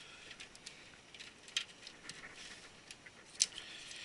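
Faint, scattered light clicks and rustles of cables and small parts being handled inside a computer case, with two slightly sharper clicks about one and a half and three and a half seconds in.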